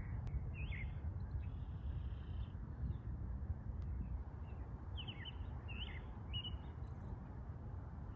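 Songbirds chirping in short calls, once near the start and a small cluster about five seconds in, over a steady low rumble.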